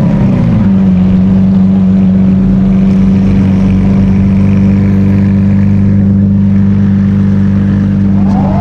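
A sports car engine coming down off a rev in the first second, then running at one steady, unchanging pitch.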